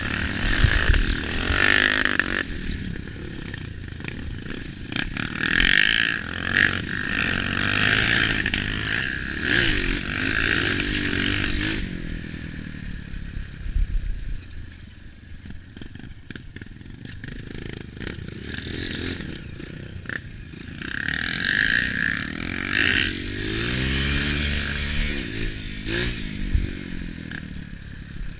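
Trail motorcycle engines revving up and down, rising and falling in pitch over several surges, with scattered knocks.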